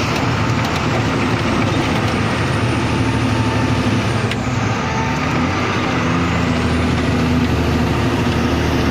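Truck engine running steadily as the truck drives along, with road noise; the engine note shifts a little partway through.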